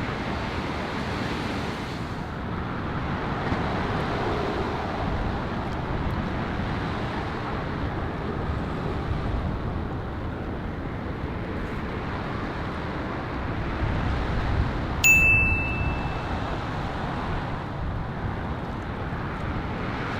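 Steady outdoor rumble of wind and vehicle engines, with a single sharp metallic ding that rings briefly about fifteen seconds in.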